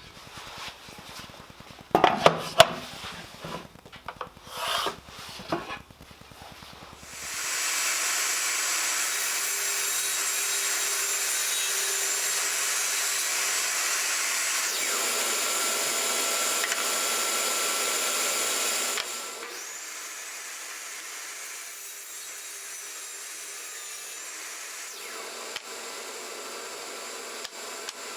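Several knocks and clicks of wood being handled, then a power tool starting up about seven seconds in and cutting wood. It runs loud and steady for about twelve seconds, then drops to a quieter steady run to the end.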